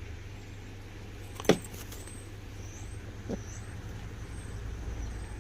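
A sharp knock about one and a half seconds in, followed by a few quick clicks, and a lighter knock a little after three seconds, over a steady low rumble.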